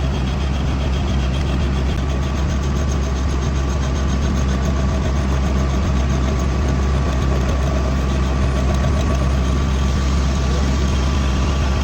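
Steady machine drone of a metal-turning lathe running, with a faint thin steady tone that comes in about two seconds in and fades out near the end.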